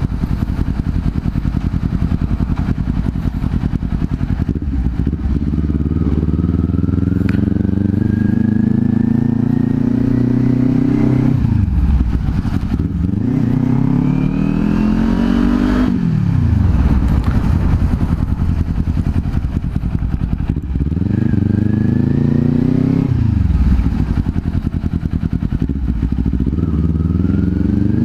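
Kawasaki Z400's parallel-twin engine under way, accelerating through the gears: the pitch climbs and then drops sharply at each upshift, about four times, with a steadier cruise in the middle.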